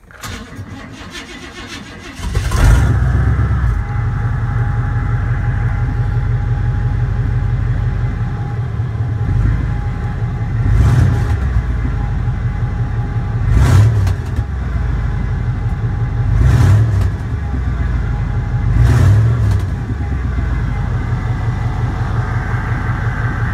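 Vehicle engine heard from inside the cab, cranked over by the starter for about two seconds before it catches. It then runs steadily, blipped up in revs four times, on an exhaust the owner says he has to fix.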